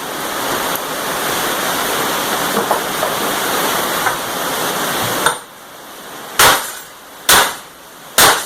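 Electric arc welder crackling and sizzling steadily as a bead is laid, stopping about five seconds in. Three loud hammer blows on metal follow, evenly spaced about a second apart.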